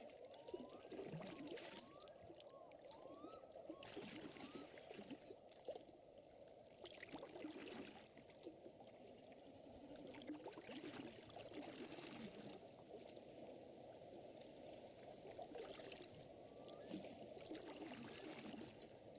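Gentle water lapping and trickling at a lakeshore, with scattered sharp pops from a crackling fire and a few faint short chirps.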